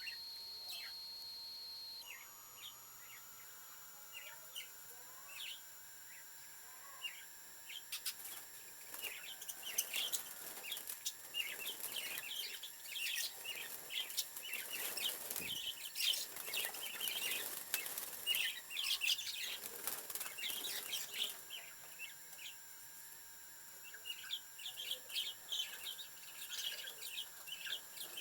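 A flock of parakeets chirping and chattering in many short, high calls, busiest through the middle, with sharp clicks mixed in.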